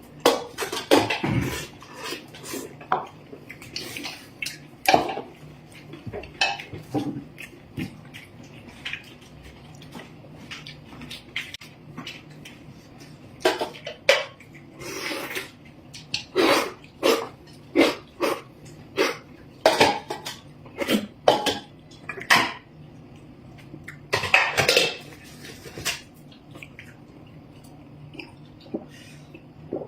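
Eating utensils clinking and scraping against bowls and dishes during a meal, in irregular short bursts, some close together.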